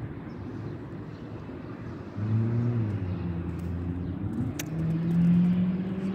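A motor vehicle's engine running nearby over steady traffic noise. It grows louder about two seconds in, and its pitch shifts and rises toward the end. One sharp click about halfway through.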